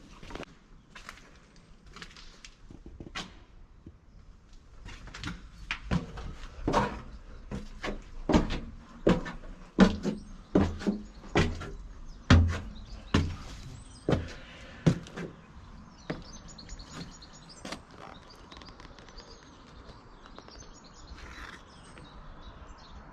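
A run of irregular knocks and thumps for about fifteen seconds, loudest in the middle. After that, birds chirping.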